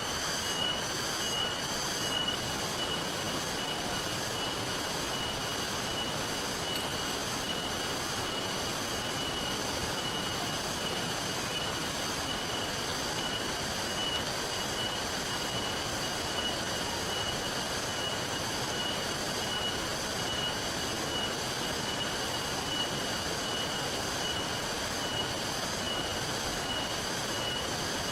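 Steady rain and river water, an even rushing hiss, with a thin, steady high-pitched whine over it.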